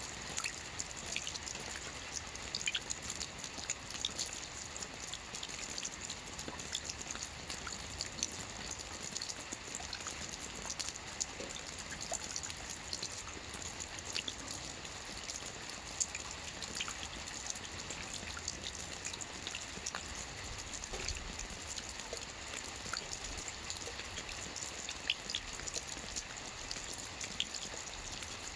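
Soft rain falling on a roof: a steady hiss with many small, separate drop taps scattered through it.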